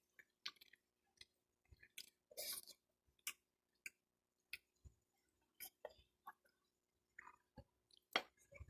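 Faint, irregular chewing and wet mouth smacks and clicks of people eating baked mac and cheese and ham.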